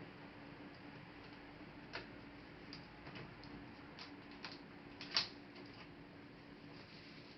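Small scattered clicks and taps of laptop plastic and metal parts being handled and worked apart, the sharpest click a little after five seconds in, over a faint steady hum.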